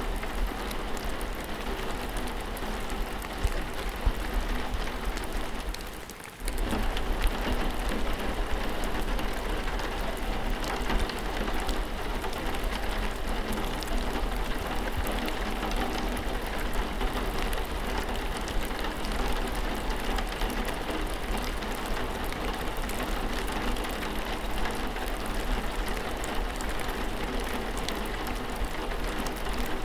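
Steady rain falling, drops pattering densely on surfaces. The sound dips briefly about six seconds in, then carries on at the same level.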